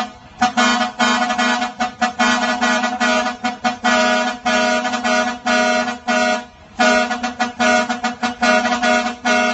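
A ten-wheeler truck's musical air horn playing a quick tune of short pitched blasts over a steady low note, with a brief pause about six seconds in.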